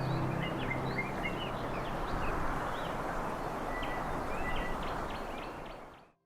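Creek water rushing steadily, with many short bird chirps over it; the sound fades out near the end.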